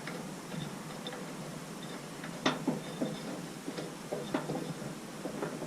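Scattered clicks and knocks of hand tools working on metal at the roller's bearing, the sharpest about two and a half seconds in, over a faint steady hiss.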